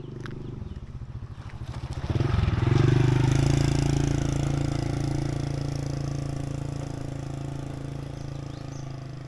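A motorbike engine running at a steady speed. It grows sharply louder about two seconds in, then slowly fades as it moves away.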